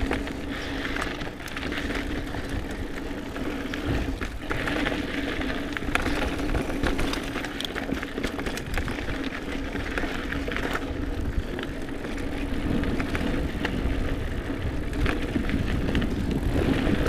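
Mountain bike being ridden along dirt singletrack: steady rush of tyres and wind, a constant low buzz, and repeated short clattering knocks as the bike goes over bumps.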